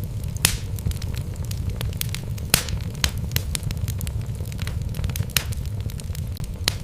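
Logs burning in a fireplace, crackling with irregular sharp pops over a steady low rumble; the loudest pop comes about two and a half seconds in.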